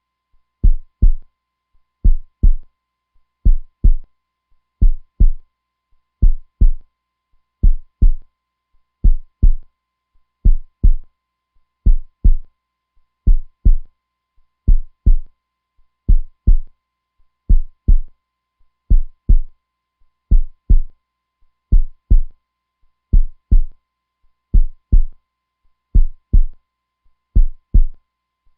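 Heartbeat sound: a low, steady lub-dub double thump repeating evenly about every one and a half seconds.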